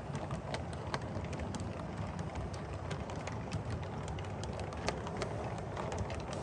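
O scale model train running along the track: a steady rumble with frequent, irregular sharp clicks.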